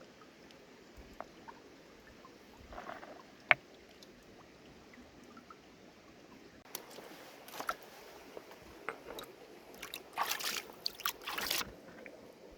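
River stones clacking and scraping together against a faint background of running water, with one sharp click about three and a half seconds in and a run of rough scraping, crunching noises near the end.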